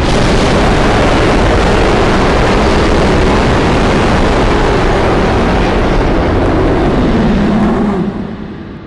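Custom-made monster roar sound effect: one long, loud, rough roar that holds steady for several seconds, then fades out near the end.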